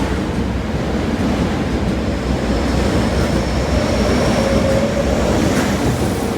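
Osaka Metro Midosuji Line train running along the station platform: loud, steady rumble of wheels on rail with a faint steady motor whine over it.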